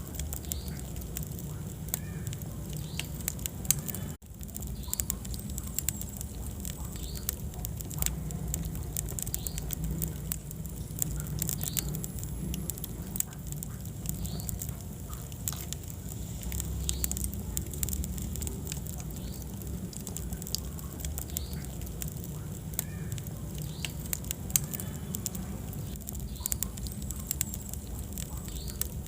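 Wood fire burning in a fireplace: a steady low rumble of flames with frequent, irregular sharp crackles and pops. The sound cuts out for an instant about four seconds in.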